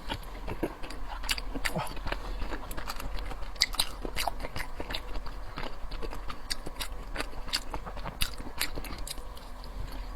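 Chewing and wet mouth sounds of someone eating raw salmon, with many short wet clicks and smacks.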